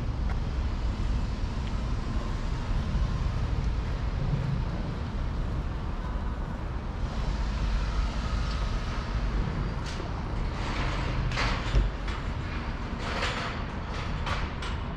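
Road traffic going by: a steady low rumble of vehicles, with a few short hissy bursts in the last few seconds.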